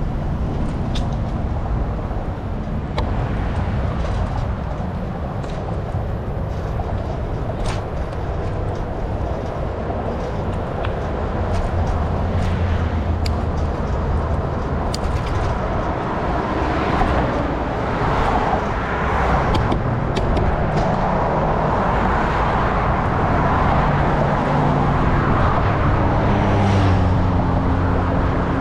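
Road traffic running past, with wind rumbling on the microphone of a moving bicycle; the tyre and engine noise grows louder in the second half.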